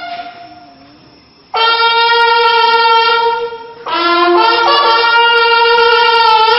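A bugle corps playing long, held notes in unison. The first note cuts off right at the start and rings away in the room; a new note comes in sharply about a second and a half in, and another about four seconds in, each held for a couple of seconds.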